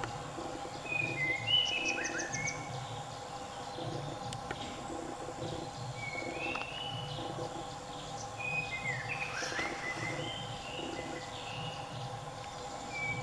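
Forest ambience: birds calling in short whistled notes that slide up and down. The calls come in clusters about a second in, around six seconds and around nine to ten seconds, over a steady insect drone.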